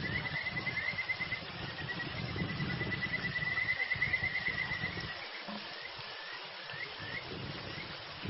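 Kajika frog (Buergeria buergeri) calling: clear, high upswept chirps that speed up into a rapid trill twice, then slow back to single chirps near the end.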